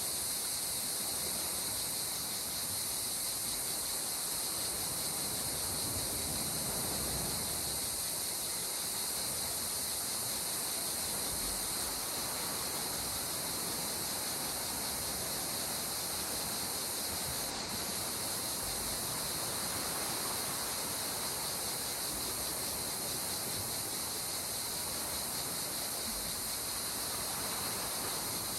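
Gentle sea waves washing on the shore, swelling softly a few times, under a steady, high, shrill insect chorus.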